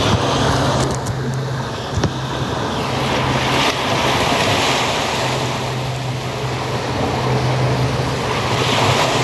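Ocean surf washing in with wind buffeting the microphone, swelling around four seconds in and again near the end. A low steady hum runs underneath, and there are a few light knocks in the first two seconds.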